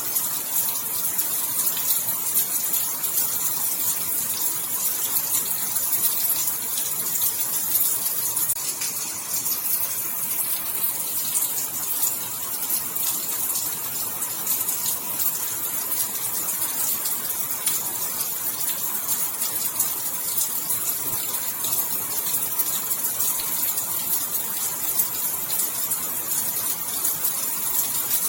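Steady rain falling, an even hiss of many drops that holds without let-up.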